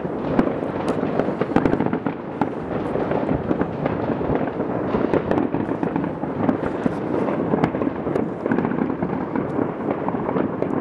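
Fireworks and firecrackers going off all around at once: a dense, continuous crackle of overlapping bangs and pops with no pause.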